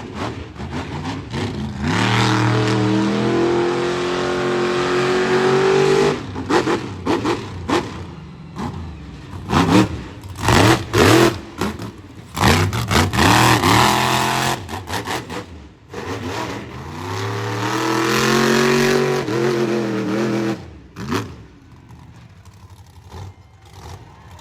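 Monster truck engine revving hard, twice climbing in pitch for several seconds at full throttle. In between it gives a run of short, sharp throttle bursts and cracks.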